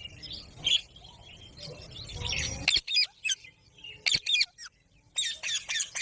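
Pet parrot calling in short, sharp screeches that drop in pitch, in three quick runs of several calls each. Under the first run, a rushing noise builds and then cuts off suddenly.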